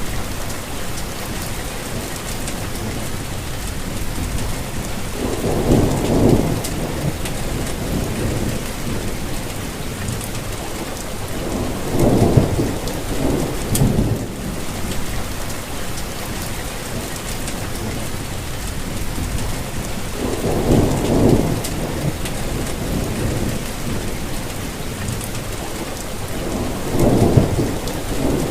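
Steady rainfall, with low rumbles of distant thunder swelling and fading four times, roughly every seven or eight seconds.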